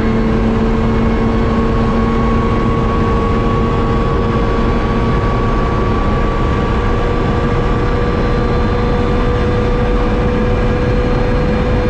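Lotus Exige S's supercharged V6 at full throttle in a high gear, its pitch climbing only slowly, over heavy wind and tyre noise. The engine is down on power because a torn shaft seal has oiled the supercharger belt.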